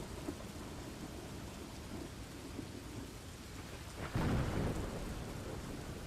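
Steady rain ambience with a sudden clap of thunder about four seconds in that fades over a second or so.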